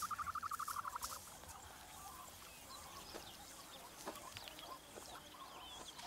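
Ostrich chick calling: a rapid, pulsed chirping trill that stops about a second in, followed by faint scattered chirps.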